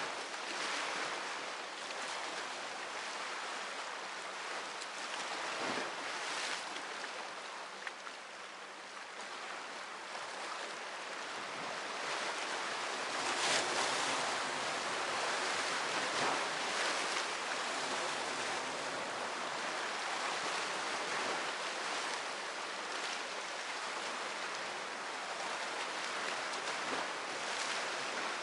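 Sea waves washing ashore: a continuous rush of surf that swells and ebbs, growing louder about halfway through.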